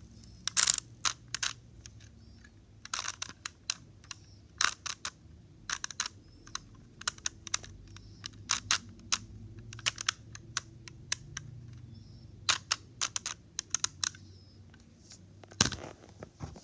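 Small hard plastic fidget toys being handled and clicked: irregular sharp clicks, some in quick runs of two or three, with a louder click near the end.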